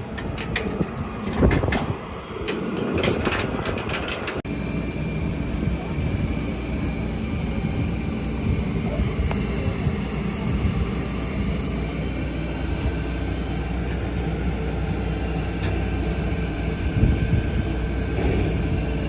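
A vehicle running with a steady low rumble, after a few seconds of scattered clicks and knocks that cut off suddenly.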